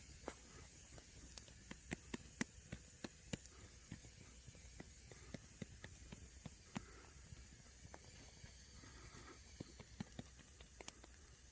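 Faint steady hiss from cooking over a small wood fire, broken by irregular sharp crackles and pops. The pops come thick in the first seven seconds or so and then thin out.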